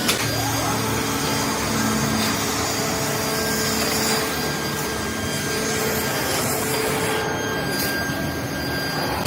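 Workshop machinery running steadily: a continuous mechanical noise with faint steady tones.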